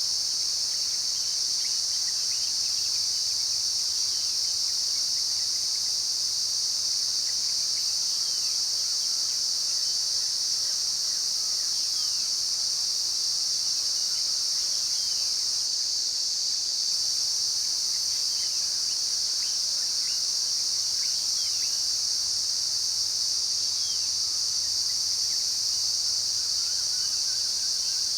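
A steady, high-pitched insect chorus drones without a break, with faint short falling bird chirps scattered through it.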